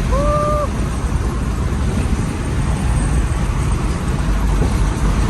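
Steady car rumble and road noise heard from inside a moving car, with a brief held tone lasting about half a second right at the start.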